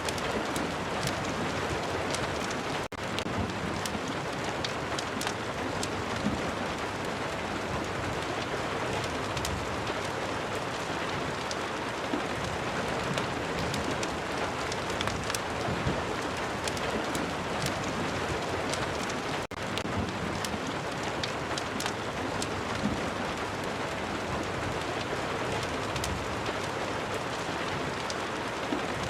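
Steady rain mixed with a fireplace: an even hiss of rain with many small sharp ticks scattered through it. The sound cuts out for an instant twice, about three seconds in and again about twenty seconds in.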